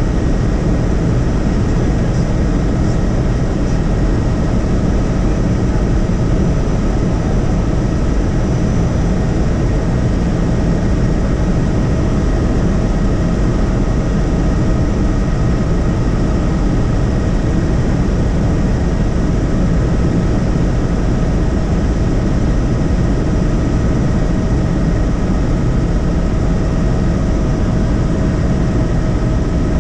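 Helicopter running steadily in flight: a constant engine and rotor drone with a thin steady whine above it.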